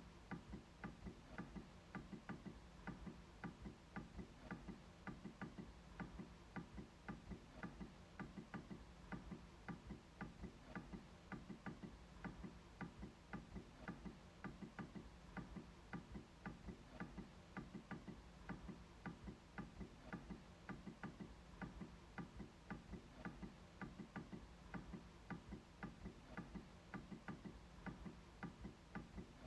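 MacBook trackpad being clicked over and over, several quick clicks a second in a continuous run.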